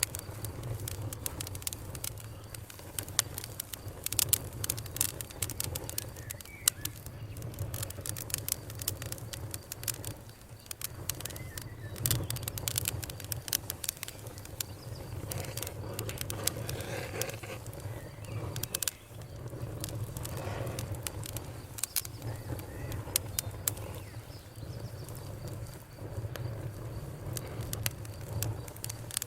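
Campfire crackling, with frequent sharp pops and snaps, over the steady low rush of a river and a faint, steady high cricket trill.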